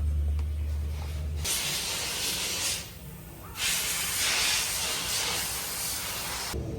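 Compressed air hissing in two long bursts, the second longer, after a low hum in the first second and a half.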